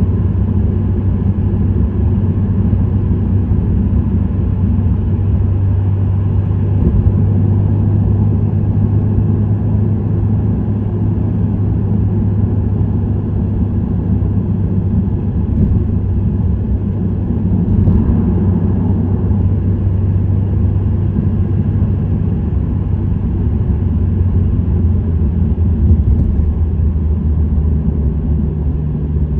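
Subaru WRX STI (VAB) turbocharged 2.0-litre flat-four with an STI Performance muffler running at a steady speed: a steady, loud low exhaust drone over road noise. Near the end the drone drops a little lower in pitch.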